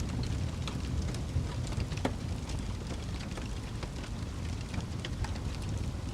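Wood fire crackling, with scattered sharp pops and snaps, one louder pop about two seconds in, over a steady low rumble.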